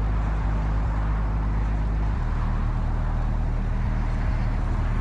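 Vehicle engine running steadily, its low note shifting slightly about two seconds in.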